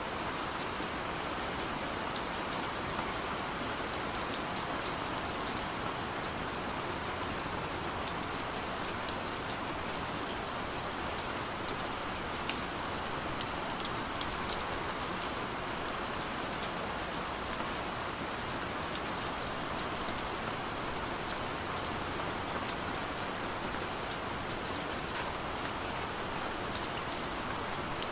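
Steady gentle rain: an even hiss of rainfall with scattered sharp ticks of individual drops hitting a surface.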